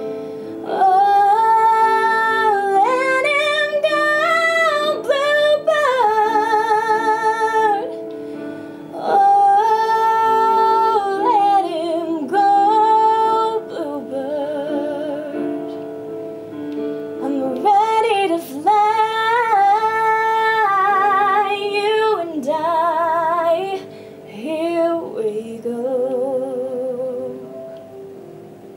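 A young woman singing solo over piano chords, holding long notes with vibrato and sliding through runs, with no clear words; her voice drops away in the last few seconds, leaving the accompaniment.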